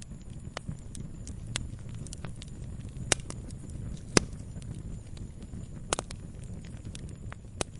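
Campfire crackling: irregular sharp pops and snaps of burning wood over a low steady rumble, with two louder pops about three and four seconds in.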